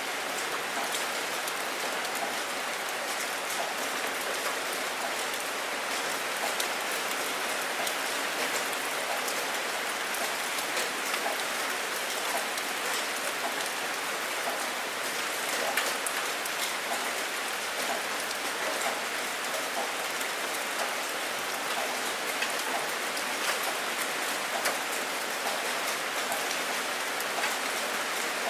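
Steady rain falling: an even hiss with many small, sharp drop taps scattered through it.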